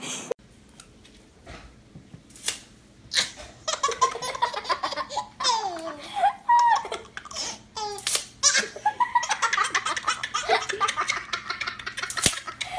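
A baby laughing in quick runs of giggles, starting a few seconds in after a quiet stretch broken by a couple of clicks.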